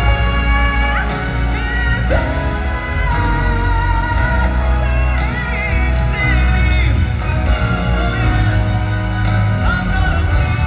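Southern gospel quartet and backing band performing loudly live, sustained sung notes over a heavy bass line.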